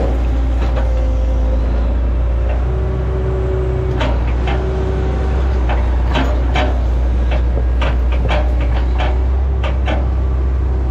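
Hitachi ZX110 excavator running steadily under load, its diesel engine humming low with a whine from the hydraulics that steps in pitch. Through the second half comes a run of sharp cracks and knocks as the machine works into oil palm trunks.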